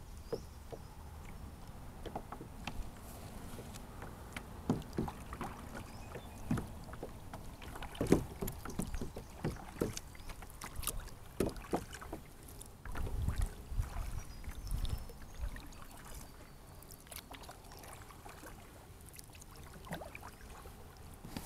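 Small splashes, drips and light knocks of a sit-on-top kayak and its paddle on lake water, coming irregularly, with a low rumble for a couple of seconds just past the middle.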